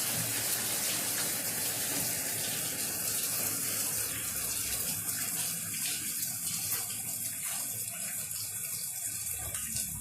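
Light rain falling steadily, a dense even hiss of water that eases slightly in the second half.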